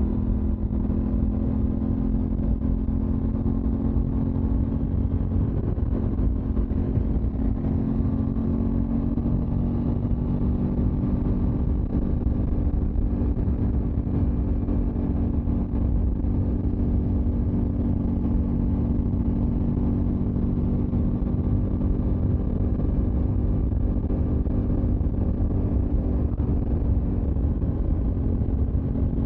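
Aprilia motorcycle engine running at a steady cruising speed, its pitch holding level, over a constant low rumble.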